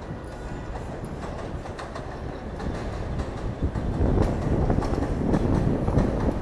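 New York City subway F train coming into the station, its wheels clicking over the rail joints and the rumble growing louder, loudest from about four seconds in.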